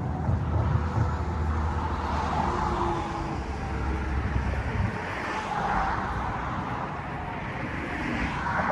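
Motor vehicle engine running with a low steady hum that stops about five seconds in, amid road traffic noise.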